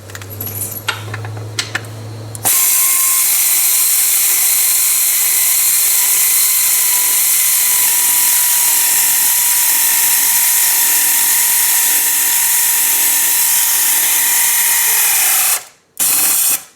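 Power tool running in one long steady run while driving a bolt on the clutch housing: a loud hiss with a high whine that sags slightly, cutting out near the end and running again briefly. Before it starts there is a lower hum with light clinks.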